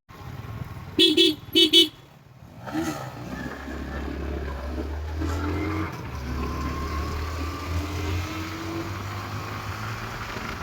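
A vehicle horn beeps twice briefly about a second in. Then a motorcycle engine runs steadily, its pitch rising at times as it accelerates.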